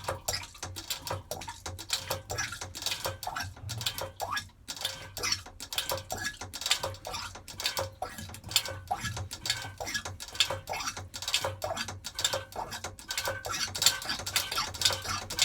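Hand oil-extraction pump being worked to draw the last of the old oil out of a marine diesel's sump, the sump nearly empty: quick, irregular clicking and clacking, several strokes a second, over a low hum.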